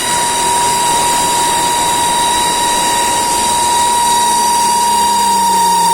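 Chevrolet Sonic 1.6 16-valve engine running with a steady high-pitched whine over its hiss. This is the noise that the owner says the engine makes once it warms up.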